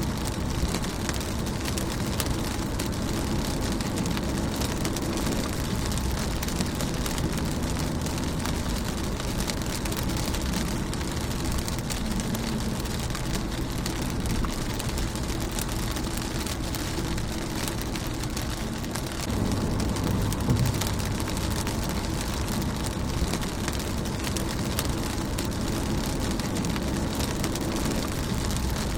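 Rain falling on a car's windscreen: a steady hiss of drops with many small ticks, over a low rumble that swells briefly about two-thirds of the way through.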